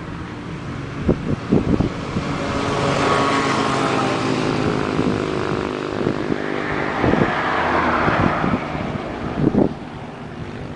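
Kawasaki ZXR250 (ZX2R) inline-four engine running through a Vance & Hines slip-on exhaust, a steady note that shifts a little in pitch, with a few short knocks.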